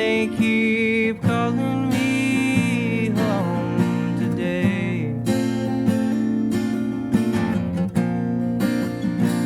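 Strummed acoustic guitar playing a song, with higher wavering held notes over the chords three times in the first half.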